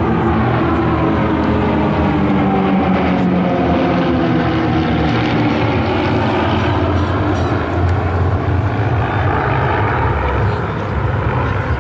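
Propeller-driven aircraft engine passing, running steadily with its note sliding in pitch as it goes by.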